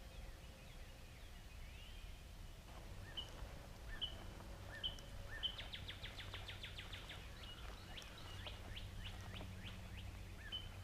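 Faint small songbirds calling in the woods: short high chirps repeated about once every second from a few seconds in, then a quick run of downward-sliding notes around the middle, over a faint low hum.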